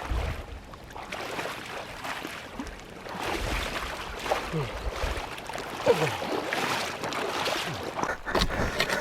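Creek water sloshing and splashing around a stalled dirt bike being pushed through a deep crossing, with irregular low thuds and a few short vocal grunts.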